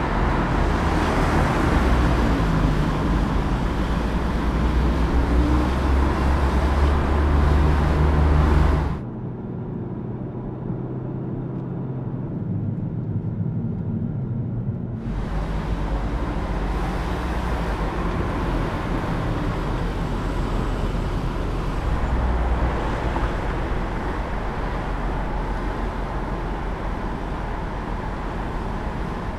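2014 Audi S3 sedan's turbocharged 2.0-litre four-cylinder engine running under way, with tyre and road noise. For several seconds in the middle the sound drops and turns muffled, as heard from inside the cabin, then opens up again.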